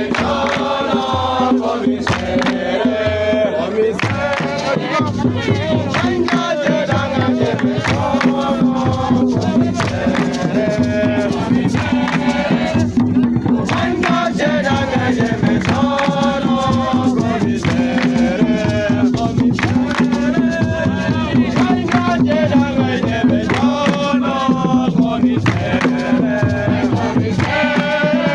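A group of voices singing a chant together over rhythmic percussion, with a steady low hum underneath.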